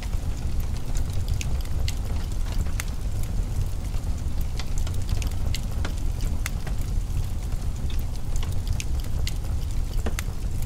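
Wood fire crackling in a fireplace, irregular sharp pops and snaps over a steady low rumble.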